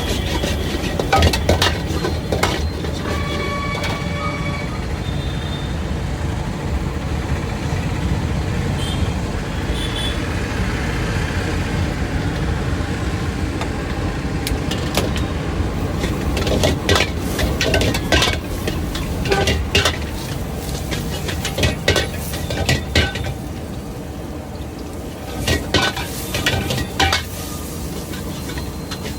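Metal cooking utensils clinking and scraping against cookware in irregular bursts, over a steady low rumble of street noise.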